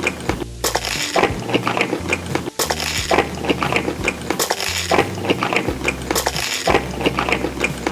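Eating sounds: repeated crunching and crackling with clinks of cutlery against a dish.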